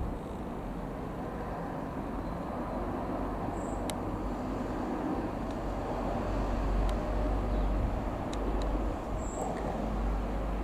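Steady low rumble of a distant jet airliner passing high overhead, swelling gradually to its loudest just past the middle.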